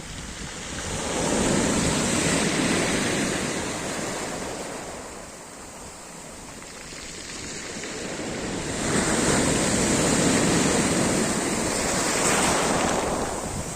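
Black Sea surf breaking on the shore, the wash swelling and ebbing in two waves, one building about a second in and a second around nine seconds in.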